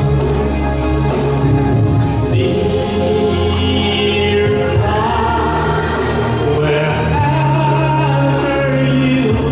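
Live music: a held, sung melody over a band accompaniment with sustained bass notes and occasional sharp percussive hits.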